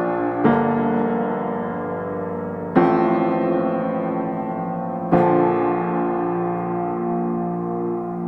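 Background piano music: slow sustained chords, a new one struck about every two and a half seconds and left to ring and fade.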